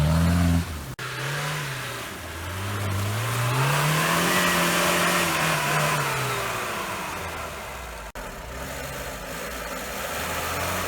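Off-road vehicle engine revving: a loud engine note that drops away under a second in, then an engine climbing in pitch and falling back again, with two abrupt breaks, about a second in and near eight seconds.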